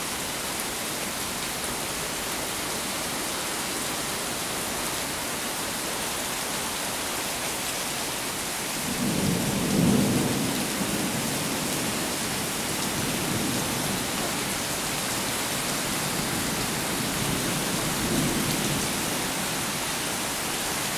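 Steady rain hissing down. About nine seconds in, a low roll of thunder builds, is loudest about a second later, and rumbles on more faintly for several seconds.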